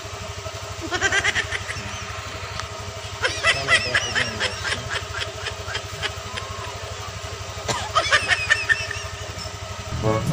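Motorcycle engine idling steadily, with three short bursts of high chirping over it.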